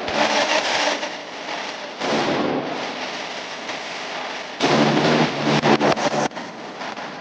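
Pressure washer spraying water onto a car in strong spells, with the machine's hum underneath. The spray eases after the first second or so, comes back hard about four and a half seconds in, and drops away again a little after six seconds.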